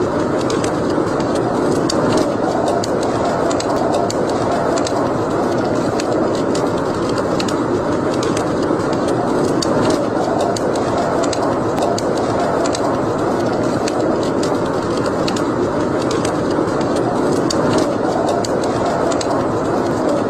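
Wood fire crackling in a fireplace: scattered sharp pops and snaps over a steady rushing noise.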